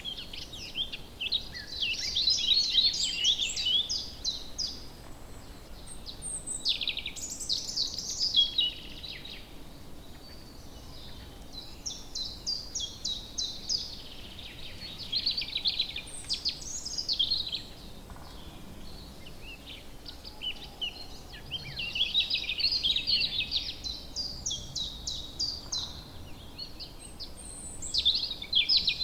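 Songbirds singing, phrase after phrase of rapid high chirps and trills that come every few seconds, over a faint steady background hiss.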